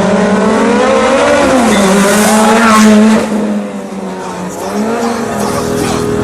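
Sport motorcycle engine revving hard as it accelerates, its pitch climbing and stepping through the gears, loudest about three seconds in, then dropping suddenly and running on lower and quieter.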